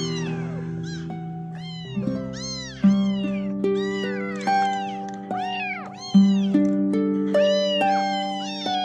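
Kittens meowing over and over in short, high-pitched, rising-and-falling calls, about two a second, over soft music of held chords.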